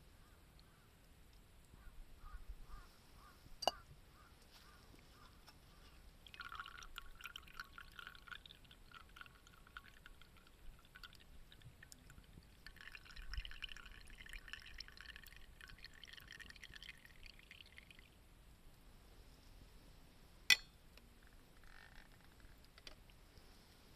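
Liquid, likely the boiled coffee, poured into a cup in two pours of about five seconds each. A sharp clink comes before the first pour and another after the second.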